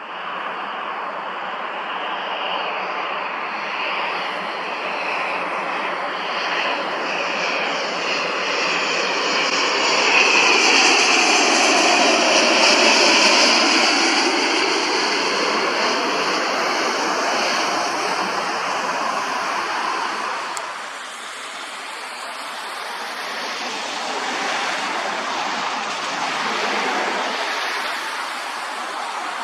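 Learjet C-21A's twin Garrett TFE731 turbofans whining as the jet goes by, a steady high whine over a rushing jet noise. It grows loudest about ten to fourteen seconds in, with the pitch sweeping down as it passes, then eases off and builds again slightly near the end.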